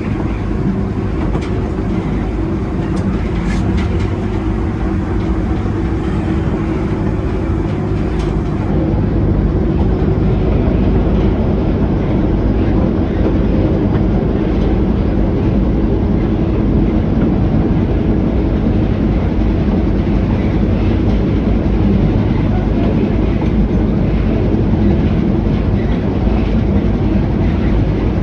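D class diesel-hauled train running along the track: a steady rumble of wheels on rails and carriage, getting a little louder about ten seconds in.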